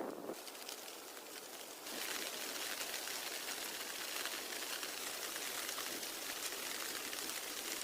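Steady rain, an even hiss of many small drops, which turns louder and denser about two seconds in.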